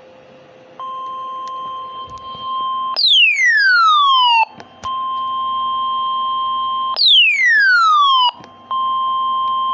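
Weather radio alert tone: a steady beep near 1 kHz, broken twice by a loud falling sweep that glides down from high to low over about a second and a half, with the steady tone resuming after each. A low hum comes before the tone starts, under a second in.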